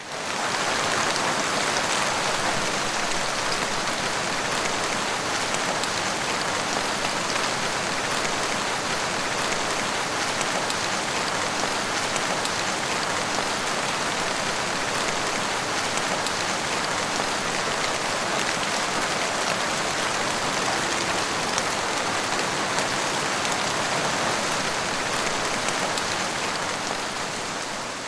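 Steady rainfall, an even hiss of many drops, fading in at the start and fading out near the end.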